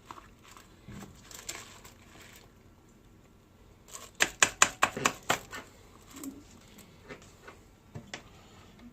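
A spoon clinking and scraping against a rice cooker's pot as food is stirred, with a quick run of about eight sharp taps in the middle.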